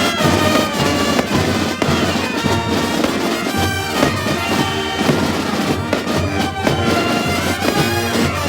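Loud music with a held, reedy melody over a steady beat, with several firework bangs and crackles going off through it.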